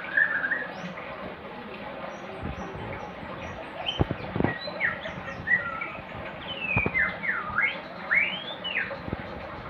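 A songbird singing short, varied whistled notes that sweep up and down in pitch, busiest in the second half, with a few sharp knocks mixed in.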